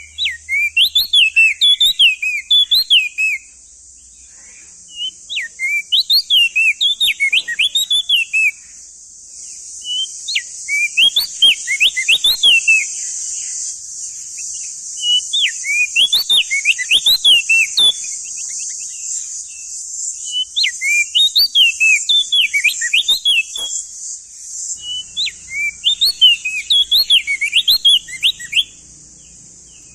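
Male opior jambul (crested white-eye) singing: repeated phrases of rapid, zigzagging whistled notes, each lasting two to three seconds, with short pauses between them. A steady high hiss runs underneath.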